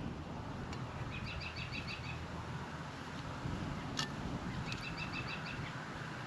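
A songbird singing twice, each time a short rapid trill of about seven quick high notes, over a low steady rumble of outdoor background noise. One sharp click falls between the two trills.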